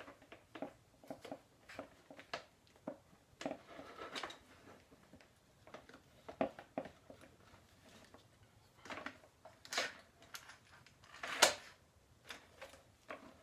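Scattered light clicks, taps and clunks of tools and metal parts being handled during a dirt-bike handlebar removal, the loudest a sharp clank about eleven and a half seconds in.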